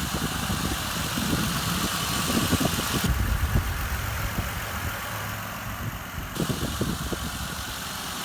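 2007 Mercury Mariner's 3.0-litre V6 idling steadily, running well. The low hum deepens from about three to about six seconds in.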